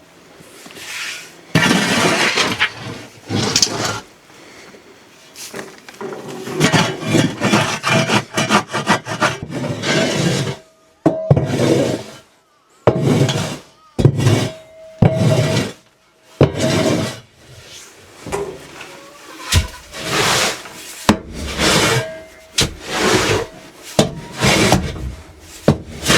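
Old dusty litter and chicken droppings being scraped out of a chicken coop: a run of rasping scrapes, each lasting about a second, with short pauses between them.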